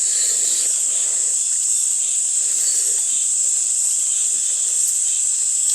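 Insect chorus: a steady, high-pitched buzz, unbroken and fairly loud.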